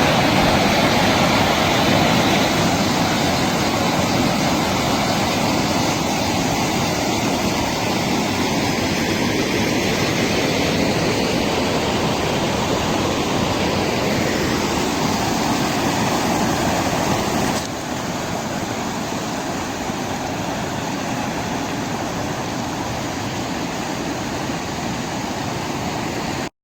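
Loud, steady rush of water from the flood, dropping a step in level about two-thirds of the way through and cutting off abruptly near the end.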